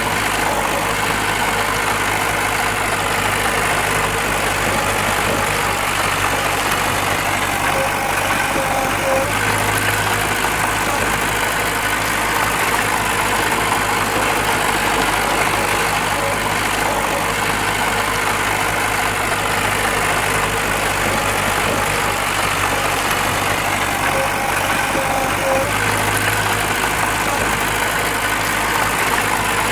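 Diesel engine of heavy earthmoving machinery running steadily, an even low drone with a slight swell about nine seconds in and again near the end.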